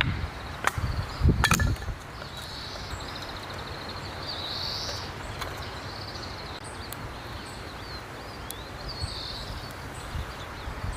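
Wind rumbling on the microphone, with a few sharp knocks in the first two seconds. Birds chirp in repeated high trills over the wind.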